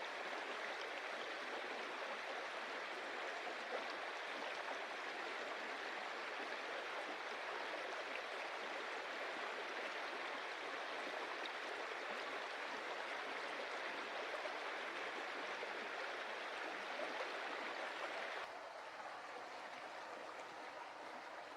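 A stream of water running and splashing over stones, a steady rush. About 18.5 s in it suddenly turns quieter and duller, as the sound shifts to another stretch of water.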